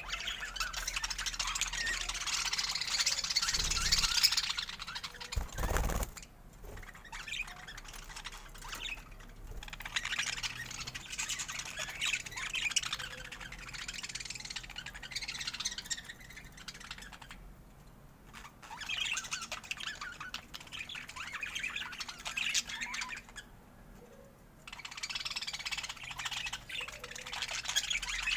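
Budgerigars chattering and squawking in a fast, scratchy warble that comes in several long bouts with short quieter gaps. A single low thump sounds about five and a half seconds in.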